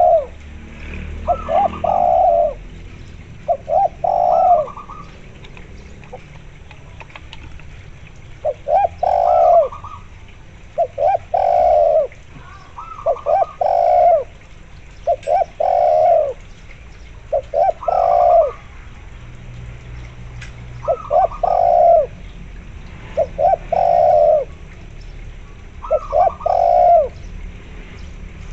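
Spotted dove and zebra doves cooing: short, rounded coo phrases repeat about every two seconds, with brief pauses twice.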